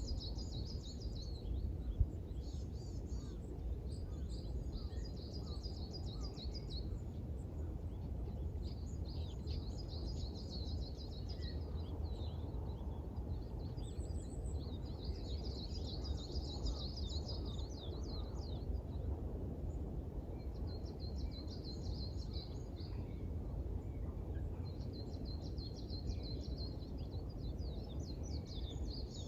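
Small songbirds singing at dawn in repeated bouts of rapid, high chirping trills, each a few seconds long, with short gaps between. Under them runs a steady low rumble of background noise.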